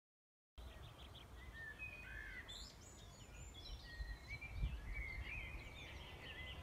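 Small birds singing and chirping, many short rising and falling calls, over a low steady outdoor rumble. It starts suddenly about half a second in, after silence.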